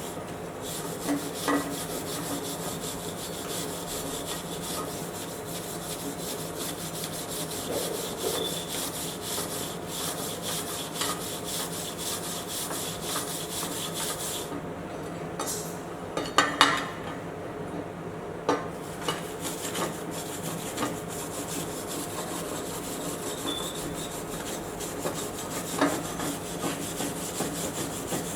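Arc welding: a steady crackling hiss of the welding arc with small sputtering clicks. It breaks off for a few seconds about halfway, with a few metallic knocks, then resumes.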